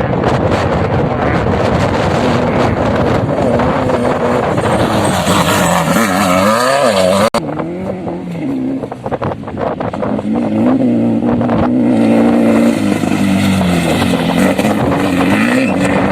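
Off-road vehicle engine running and revving, its pitch rising and falling again and again, with a sudden break about seven seconds in.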